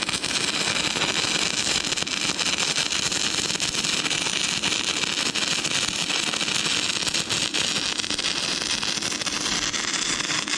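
Stick welding arc from an inverter arc welder burning an E6011 rod on dirty, rusty and painted metal: a steady, dense crackling sizzle that holds without a break.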